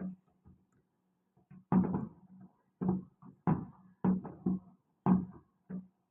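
Fireworks going off: a rapid series of sharp bangs, one every half second or so, starting about two seconds in.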